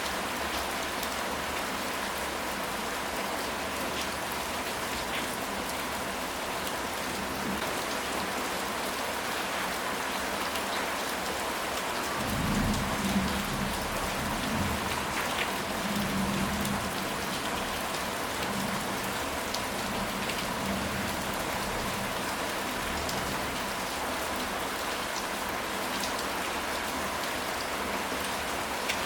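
Steady heavy rain falling, a dense even hiss. About twelve seconds in, a low rumble of thunder swells for several seconds and fades back into the rain.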